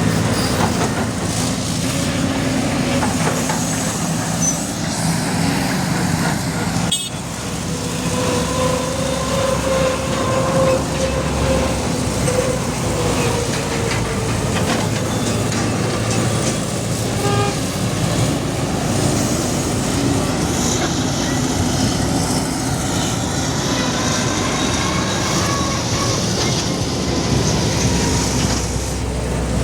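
Bulldozer at work: its diesel engine runs steadily while the steel tracks clank, with drawn-out squeals.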